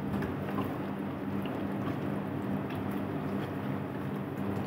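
Mutton korma masala frying and bubbling in an aluminium pot on a gas burner, with scattered small pops over a steady low hum.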